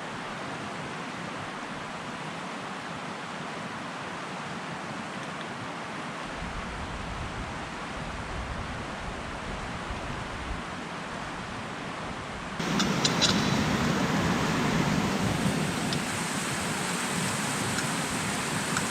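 Steady rushing of river water, with wind rumbling on the microphone from about six seconds in. About twelve and a half seconds in, the rush jumps suddenly louder and brighter.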